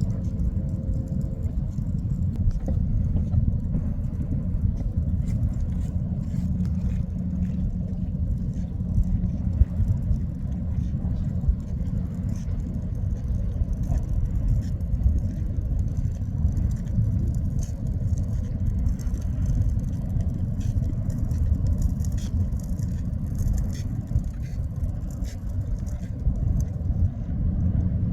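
Ship under way through the waves: a steady low rumble with a faint hiss and crackle above it.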